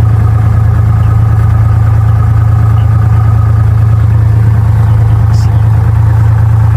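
Cessna 172's piston engine and propeller running steadily in a loud, even drone, heard from inside the cabin.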